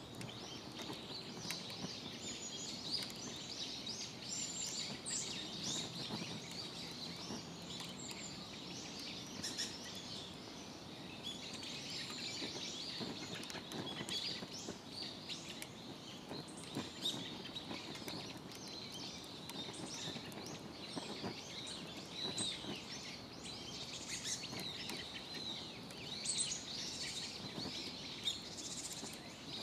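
Several small birds chirping and calling over a steady low background of outdoor noise.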